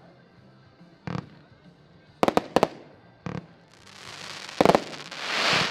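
Consumer fireworks cake, a 75-shot battery fired in salvos, shooting: a bang about a second in, a quick cluster of three near two and a half seconds, another at about three and a quarter, and a double bang near four and three-quarter seconds. A hissing crackle swells over the last two seconds.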